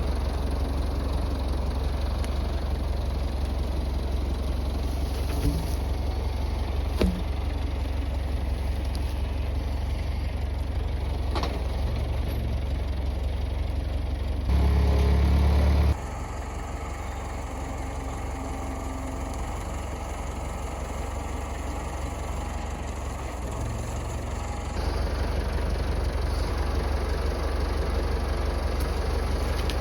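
Massey Ferguson tractor engine running steadily at a low rumble. Its level jumps abruptly a few times, louder briefly in the middle and quieter for several seconds after, with a couple of faint clicks early on.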